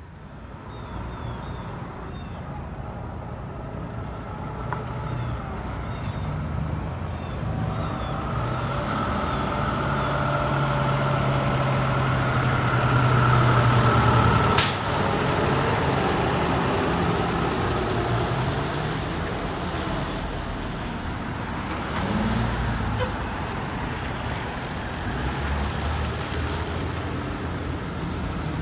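A fire truck's diesel engine running and drawing closer, growing louder to about halfway through. A sudden short burst of air cuts it off there, typical of an air brake. The engine keeps running more quietly afterward.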